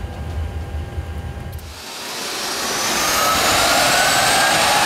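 Boeing 737 MAX 8's number 2 CFM LEAP-1B turbofan starting up on its air starter. After a low steady rumble for about the first two seconds, a rising whine and growing rush of air build as bleed air from the APU spins the engine up.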